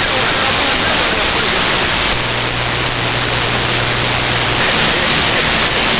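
Steady hiss of CB radio static on an open channel between transmissions, with a low hum that comes in about two seconds in and fades out near the end.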